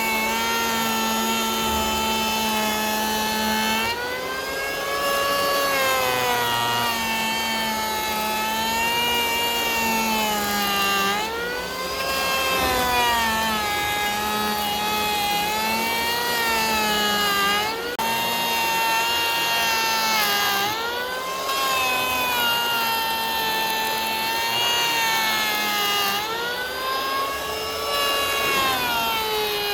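A power saw's motor running hard with a steady whine, its pitch sagging several times as the blade bites into the wood under load and then climbing back.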